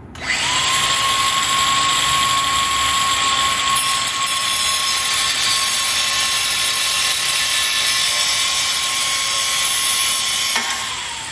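Handheld grinder spinning up and cutting metal with a steady high whine for about ten seconds, then winding down with a falling pitch near the end. It is cutting out a rusted-in headlight spring that will not come off.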